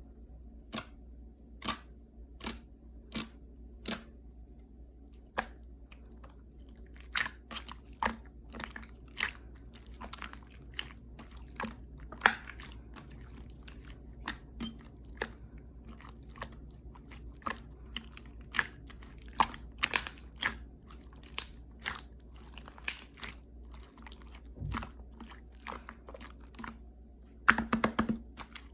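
Slime being squeezed and pressed by hand, giving sharp, wet clicks and pops. They come evenly spaced at first, then faster and irregular, with a short burst of crackling near the end.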